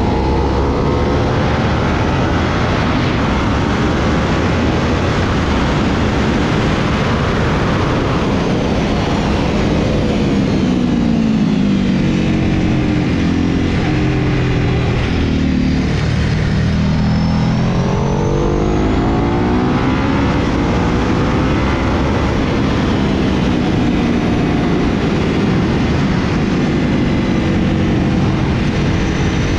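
Sport motorcycle engine heard onboard at track pace, under heavy wind rush. About a third of the way in the engine note falls as the bike slows into a corner, bottoms out about halfway, then climbs again as it accelerates out.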